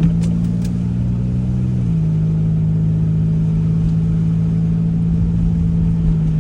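Car engine running steadily while driving, heard from inside the cabin as a loud low drone. Its pitch steps down slightly about two seconds in.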